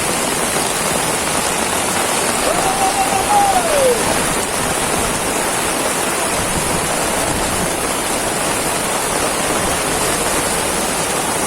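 Heavy tropical downpour: a steady, dense hiss of rain falling and splashing on surfaces. About two and a half seconds in, a short pitched tone holds briefly and then drops in pitch.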